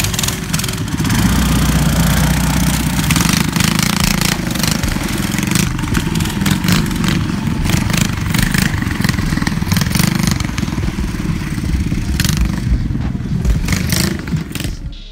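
Several mini bike engines running hard on the road, a continuous choppy engine sound with rough crackling over it.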